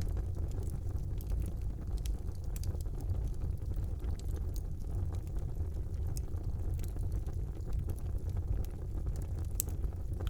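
Wood fire burning in a fireplace: a steady low roar of the flames with scattered sharp crackles and pops from the burning wood.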